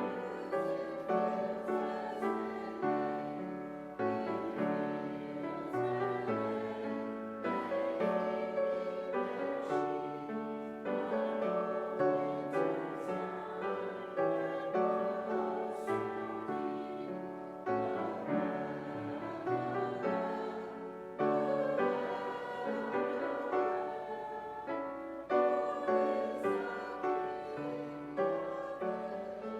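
Piano playing a slow instrumental piece, its notes struck and then fading one after another.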